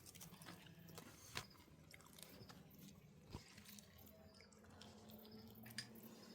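Near silence: faint background hum with a few scattered soft clicks.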